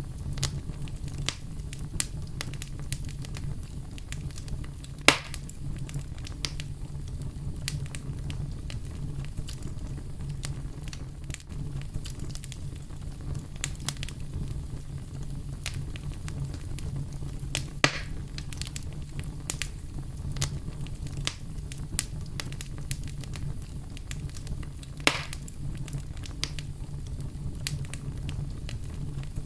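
Wood fire crackling in a fireplace: many small pops and snaps over a steady low rumble, with three sharp, louder pops, about five seconds in, near the middle and near the end.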